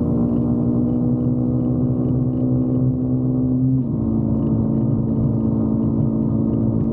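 Motorcycle engine running at a steady cruising speed, heard from on the bike with a low rumble beneath. Its pitch drops slightly about four seconds in, then holds steady.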